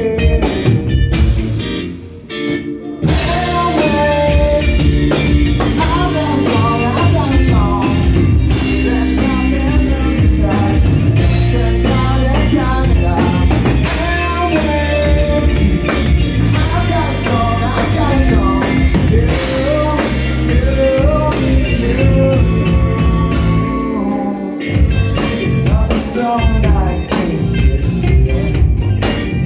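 A rock band playing live: electric guitar, bass and drum kit with a sung vocal line, a brief drop-out about two seconds in.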